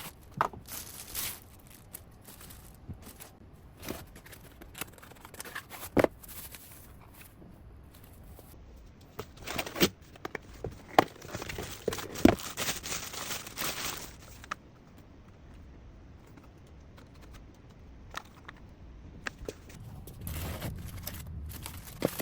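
Packaging handled while a cordless vacuum is unboxed: plastic wrap and cardboard crinkling and tearing, with scattered knocks and clicks as parts are lifted out. A longer stretch of rustling comes about halfway through, and a faint low hum comes in near the end.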